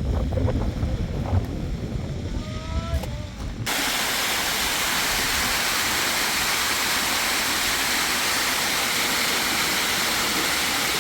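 Low rumbling wind noise on the microphone for about three and a half seconds, with a few short rising tones near its end. Then it switches abruptly to a loud, perfectly steady rushing hiss of heavy water, like pouring rain or a torrent.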